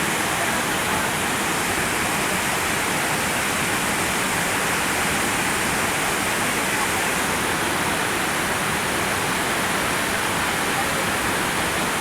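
Waterfall: water falling and splashing in a loud, steady, even rush.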